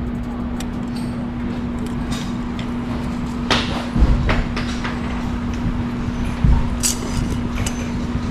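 Work on an engine and gearbox: metal parts and tools clanking, with two heavy dull thumps a few seconds apart, over a steady hum.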